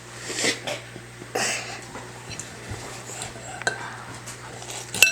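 A child eating noodles, with cutlery scraping and clinking against a dish; a sharp, ringing clink near the end.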